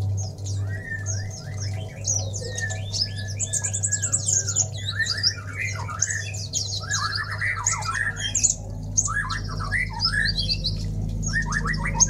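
Many birds chirping and squawking over one another in dense, rapid trills and calls, with a low steady hum underneath.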